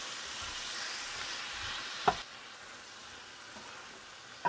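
Onions, tomatoes and almonds sizzling in hot ghee in a frying pan on high flame while being stirred with a wooden spoon. A sharp knock comes about two seconds in, after which the sizzle is quieter, and another knock comes at the end.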